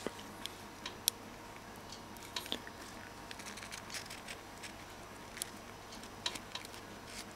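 Irregular small clicks and rustles of hands working on a motorcycle wiring harness, with a sharp click about a second in.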